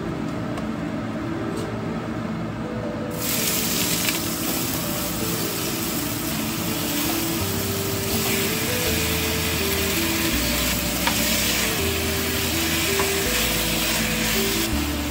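Food sizzling in hot oil in a wok: the sizzle swells up about three seconds in as ingredients go into the pan and carries on while they are stirred. Background music with a simple melody plays underneath.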